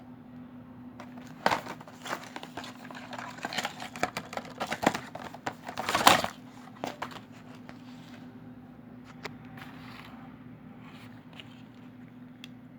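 Plastic packaging crinkling and rustling as it is handled, with sharp clicks, loudest in the first half and fading to scattered clicks. A steady low hum runs underneath.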